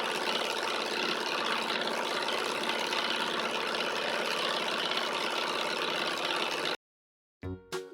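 Alpha-type Stirling engine running steadily while it drives a small generator. It cuts off suddenly about seven seconds in, and music starts just before the end.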